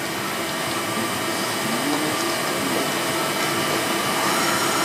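MAHO MH 600 W CNC toolroom mill running with a steady machine whir and hum, and a faint rising whine about two seconds in.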